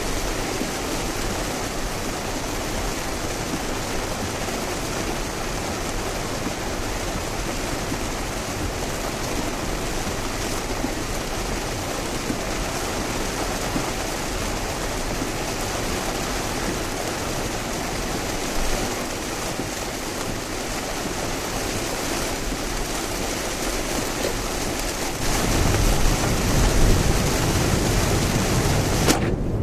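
Car driving through heavy rain on an expressway: a steady hiss of rain and tyre spray. About 25 seconds in, a deeper rumble joins it and the noise grows louder.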